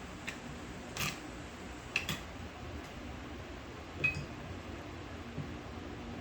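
A few light clicks and clinks of small metal carburetor parts and tools being handled during disassembly, the loudest near 1, 2 and 4 seconds in, the last one ringing briefly.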